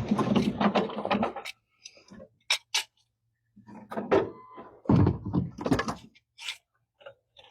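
Thuds and knocks in two bunches, each about two seconds long, with scattered sharp clicks in between.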